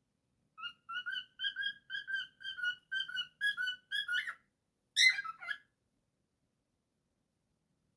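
Cockatiel whistling a tune: a run of short, clear whistled notes, then one louder, harsher call about five seconds in.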